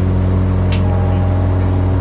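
Small propeller airplane's engine running with a steady low drone, held before takeoff.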